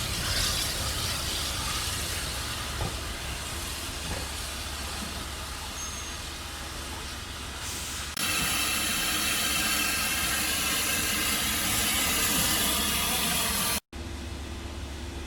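Steam train on the move behind a Caledonian Railway 0-4-4T tank locomotive: a steady run with a rumble underneath and a hiss of steam. About eight seconds in, a louder, steady hiss starts abruptly. It cuts out for an instant near the end, and a quieter steady running sound follows.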